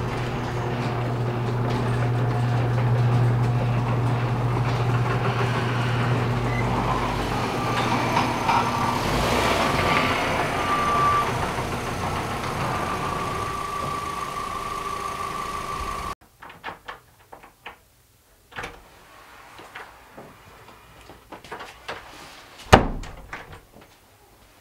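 Ford Focus engine running steadily with a low hum, with a steady high tone sounding over it in the later part. After about sixteen seconds it cuts abruptly to a much quieter room with scattered small knocks and one loud thump a couple of seconds before the end.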